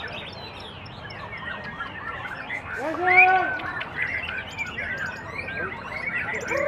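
White-rumped shama (murai batu) singing amid a dense chorus of overlapping chirps and whistles, with one louder, drawn-out call about three seconds in.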